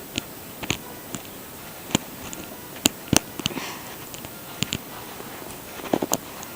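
Small LEGO plastic parts being handled and fitted together: a scattering of short, sharp clicks and taps, the loudest about three seconds in and a quick pair near the end.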